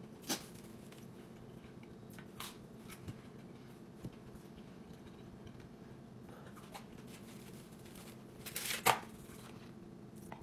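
Quiet chewing and handling of a toasted grilled cheese sandwich: a few soft crisp clicks, then a louder crunchy crackle about nine seconds in, over a steady low hum.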